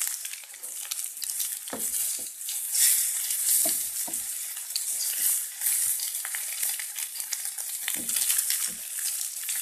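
Egg omelette sizzling in hot oil in a frying pan, with a slotted spatula scraping across the pan and cutting through the egg. A few soft knocks of the spatula against the pan come scattered through.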